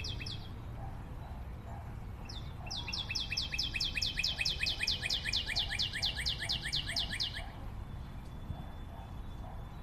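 A songbird singing a brief burst, then a fast trill of evenly repeated descending notes, about eight a second, from about 3 s in until near 7.5 s, over a steady low rumble.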